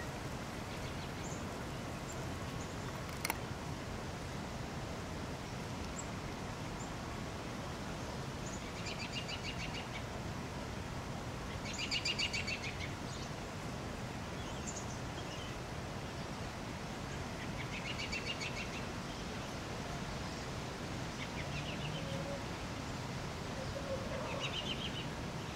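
Several short bursts of rapid, chattering bird calls, spaced a few seconds apart, over a steady background hiss.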